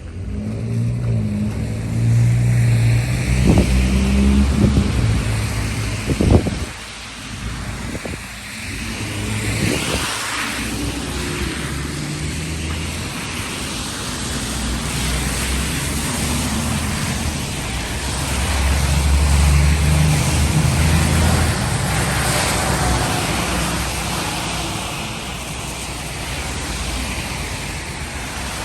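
Cars passing on a rain-wet street over a steady hiss. The loudest passes come about two to five seconds in and again around eighteen to twenty-two seconds in.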